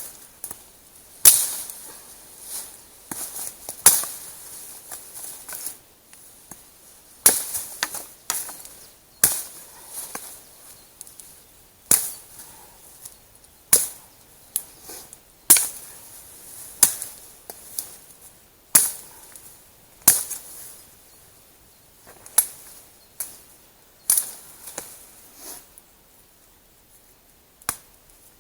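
Wood campfire crackling, with sharp pops and snaps at irregular intervals, roughly one every second or two, over a quiet background.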